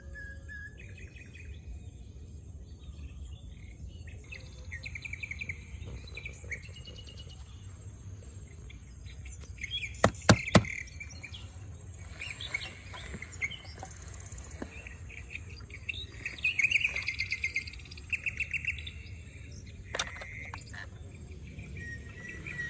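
Small birds chirping and trilling on and off, with three sharp clicks in quick succession about halfway through and another near the end.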